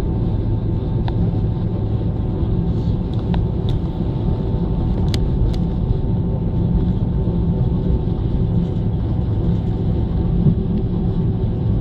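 Airliner cabin noise during takeoff: the engines and airflow make a steady, loud rumble, with a constant hum tone above it and a few faint clicks.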